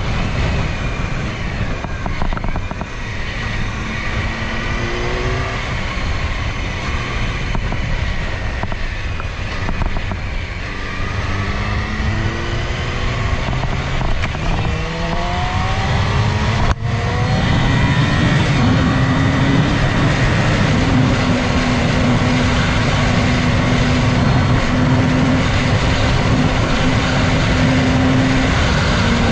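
Yamaha R6's 599 cc inline-four engine accelerating through the gears, its pitch climbing and dropping back at each upshift several times, under heavy wind noise on the mic. After a brief dropout about two-thirds of the way in, it holds a steady pitch at cruise.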